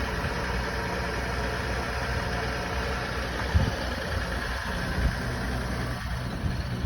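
Ford 3.0L Power Stroke turbo-diesel V6 idling steadily just after a cold start in sub-zero cold, with a brief sharp knock about three and a half seconds in and a smaller one about five seconds in.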